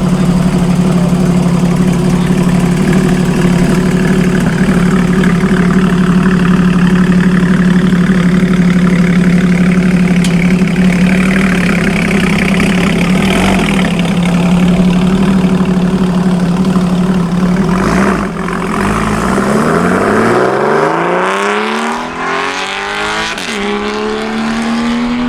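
A car engine holding a steady drone at constant revs. About nineteen seconds in, the pitch drops low and then climbs repeatedly as the car accelerates.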